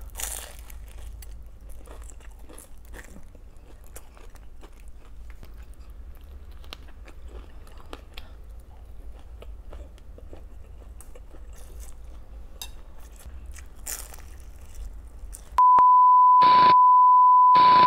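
Close-miked eating sounds, faint clicks and crunches of chewing and biting food, over a low hum. Near the end a loud, steady, single-pitched beep tone of a couple of seconds cuts in, the kind of edited-in bleep used to cover speech.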